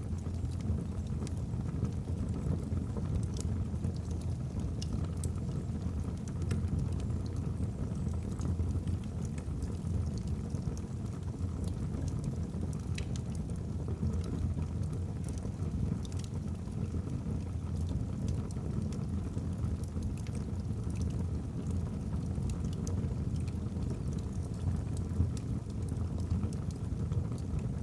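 Wood fire burning in a fireplace: a steady low rushing of the flames with scattered sharp crackles and pops from the logs.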